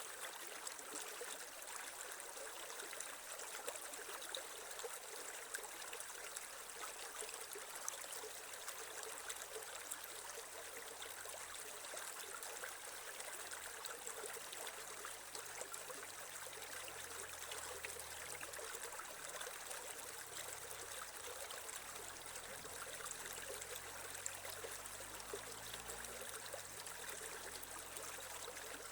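Creek water running and trickling over stones, a steady splashing with small crackles and no pauses.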